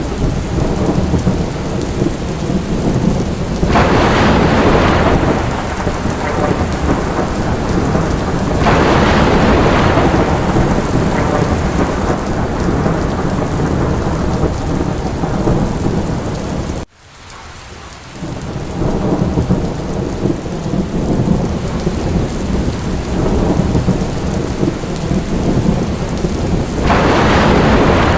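Steady rain with a low rumble underneath, swelling louder three times. About two-thirds of the way through, the sound cuts out suddenly and fades back in over a second or so.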